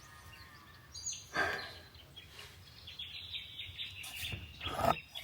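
Birds chirping and calling, with thin high notes held longer in the second half. Two louder sounds stand out, about a second and a half in and near the end.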